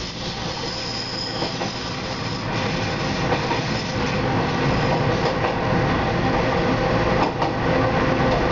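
Diesel railcar running round a curve, heard from inside at the front: a steady rumble of wheels on rail, with a high wheel squeal about a second in and a sharp clack about seven seconds in.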